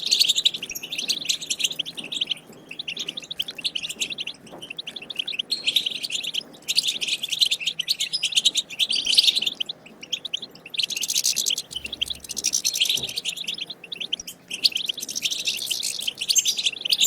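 Wild European goldfinch singing its rapid, twittering 'batbata' song in phrases of a few seconds, separated by brief pauses.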